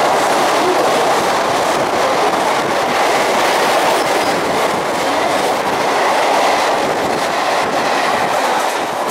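Passenger coaches of a superfast express passing close at speed: a loud, steady rush of wheels on rails with a clatter running through it.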